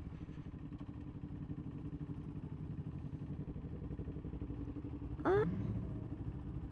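KTM RC390 single-cylinder motorcycle engine running steadily at low speed. About five seconds in, a short, loud, high sound sweeps up in pitch and then drops.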